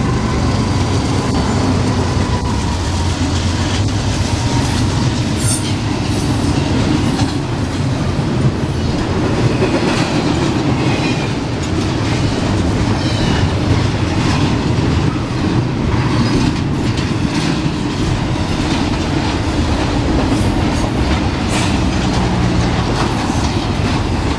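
Train passing at speed, steel wheels rumbling and clicking over the rail joints, with a few brief faint high squeals from the wheels.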